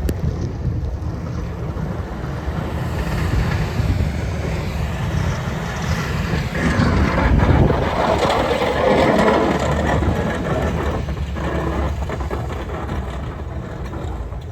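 Heavy wind rumbling on the microphone while a road vehicle passes, swelling louder about halfway through and then fading.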